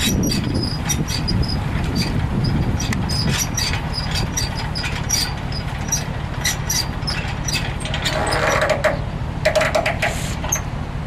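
Twin Mercury Racing Optimax outboard engines idling with a steady low rumble, with scattered light clicks and knocks over it.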